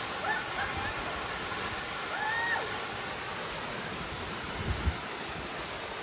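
Steady rushing of a waterfall. A few short voice-like sounds come in the first three seconds, and two brief low bumps about five seconds in.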